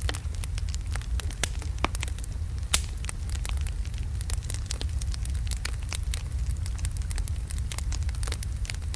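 Wood logs burning in a fireplace: a steady low rumble of the flames with frequent irregular crackles and pops, one sharper pop about three seconds in.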